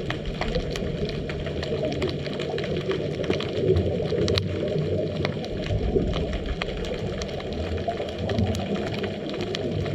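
Underwater sound picked up by a GoPro in its housing: a steady muffled rumble with many faint scattered clicks and crackles.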